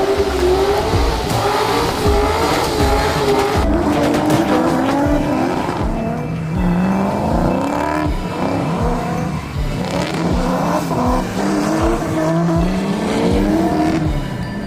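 Drift car engines revving up and down hard, with tire squeal as the cars slide.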